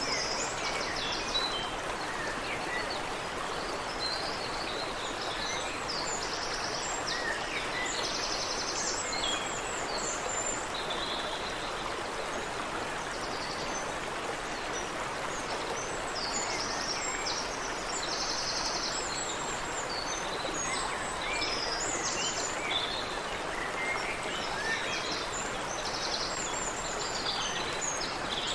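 Steady rush of water running in a stream, with many birds singing short chirps and trills over it.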